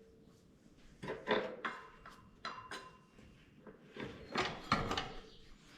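Metal motorcycle parts being handled and fitted: a series of clinks and knocks in short clusters, about a second in, again near the middle, and a busier run near the end.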